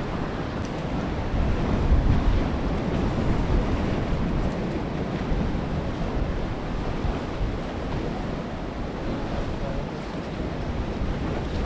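Strong wind buffeting the microphone over choppy sea water, a steady rumbling noise with no clear events.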